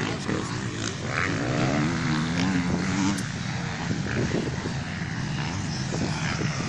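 Several motocross bikes' engines droning, their note rising and falling as they rev around the track.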